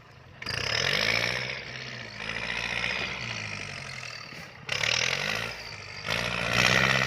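Kubota L4708 tractor's diesel engine revving hard under load while pushing soil, its pitch rising and falling in three loud surges, about half a second, four and a half and six seconds in.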